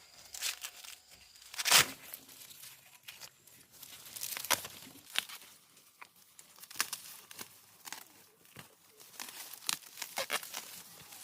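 Dry plant material rustling, crackling and snapping in irregular bursts, with the sharpest snap about two seconds in.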